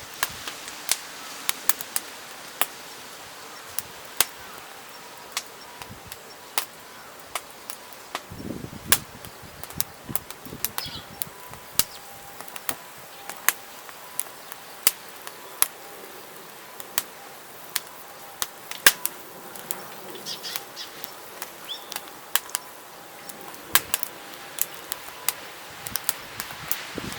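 Burning firewood crackling, with sharp irregular pops over a steady hiss.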